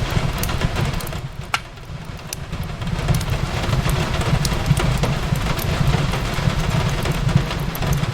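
Fireplace crackling, with scattered sharp pops (the loudest about a second and a half in), over a steady low rumble and the hiss of rain.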